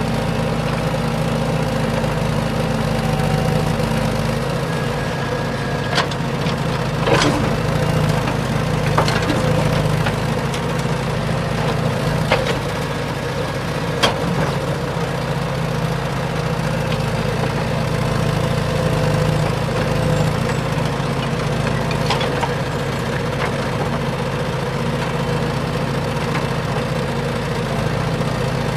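A motor running at a steady hum, with a few sharp knocks or clicks scattered over it.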